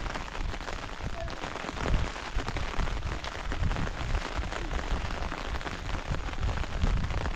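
Steady hiss of falling rain, with irregular low rumbles of wind buffeting the microphone.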